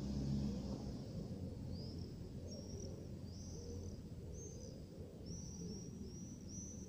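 Birds calling in quick series of short, high chirps, which start about two seconds in and become more frequent, over a low steady rumble of distant city noise.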